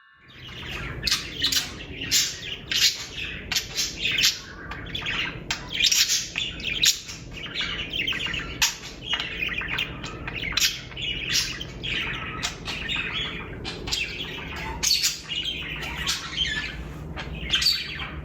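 Budgerigars chirping and chattering to one another: a dense, continuous run of short, sharp calls.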